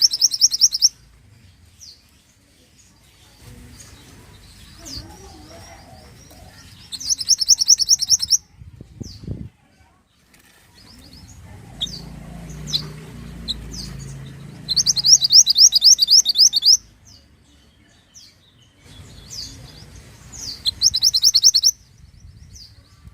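Mantenan (little pied flycatcher) singing: bursts of rapid trills of quickly repeated high notes, each a second or two long, coming four times, with short single chirps scattered between them.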